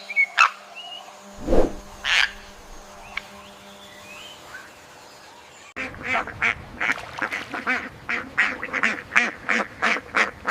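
A toucan calling a few times. About halfway through the sound changes abruptly to a different bird's fast run of short repeated calls, about three a second.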